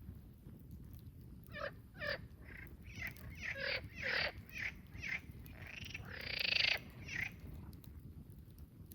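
A bird calling in a series of about a dozen short notes that start about a second and a half in and grow louder, ending in one longer, louder call near the end.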